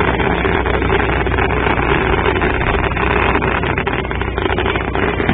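Fireworks going off in a dense, continuous barrage: many rapid bangs and crackles merging into one steady roar.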